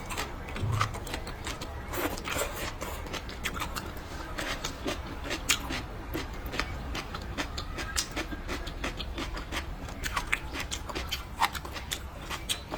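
Close-up mouth sounds of someone eating: wet chewing and lip-smacking, an irregular run of sharp clicks and smacks.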